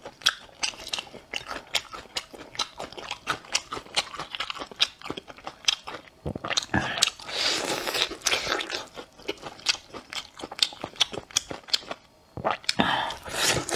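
Close-miked chewing of crunchy laba garlic (green vinegar-pickled garlic cloves): many quick, crisp crunches with wet mouth sounds, and a longer noisier stretch around the middle.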